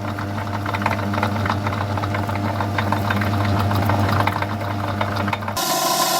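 Myford lathe running at a lowered speed while taking an interrupted cut on an off-centre connecting rod: a steady motor hum with rapid ticking as the tool meets the work on each turn. Near the end the sound switches abruptly to a different, higher-pitched steady machine sound.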